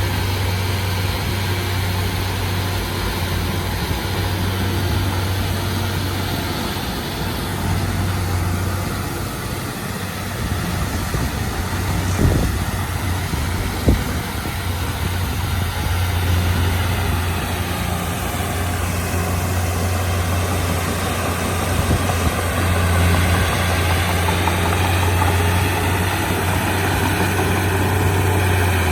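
Komatsu D31P crawler bulldozer's diesel engine running steadily with a low hum. About halfway through come two sharp knocks a second and a half apart.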